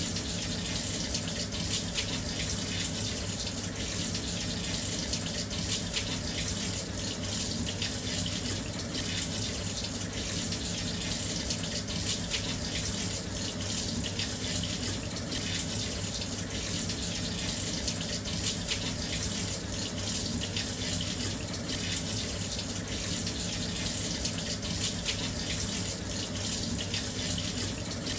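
Washing machine filling with water: a steady stream pouring into the drum, splashing evenly without change.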